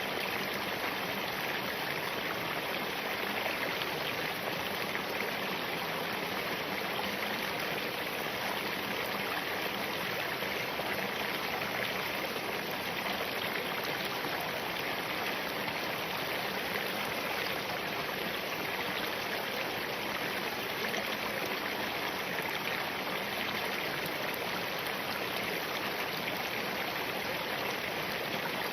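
Spring-fed mountain stream running over and between rocks: a steady, even rush of flowing water.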